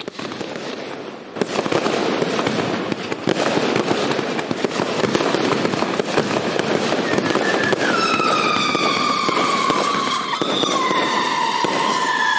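UFO Attack XL consumer firework (an aerial finale set with flying UFOs) going off: a dense, continuous crackle that jumps in loudness about a second and a half in. Near the end, several high whistles from the flying UFOs join in, sliding slowly down in pitch.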